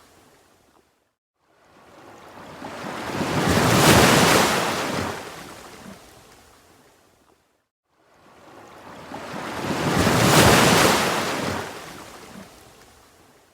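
Ocean waves breaking on a shore: two waves, each building over a few seconds to a peak and washing away, with a brief silence between them.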